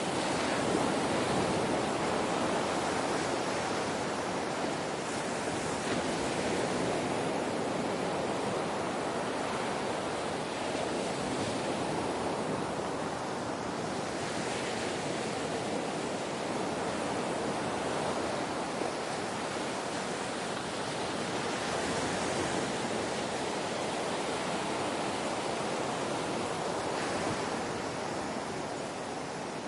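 Ocean waves washing ashore in a continuous soft rush, rising and falling slowly in loudness.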